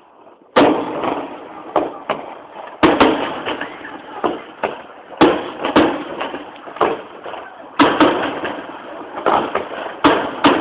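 Aerial firework shells bursting in a rapid, irregular series of loud bangs, about a dozen, each trailing off in an echo, with a crackle between some of them.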